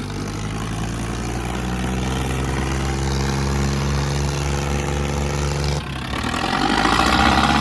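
Tractor diesel engines running hard under heavy load in a tug-of-war pull, with a steady low drone. About six seconds in the sound dips briefly, then comes back louder and harsher near the end.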